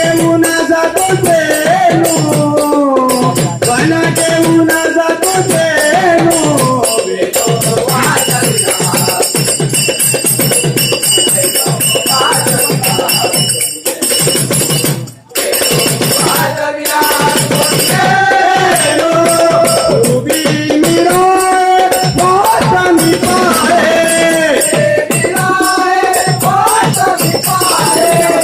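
Devotional bhajan music: a gliding melodic line carried over a steady beat of drum strokes, with jingling and rattling hand percussion throughout. The music briefly drops out for a moment about halfway through.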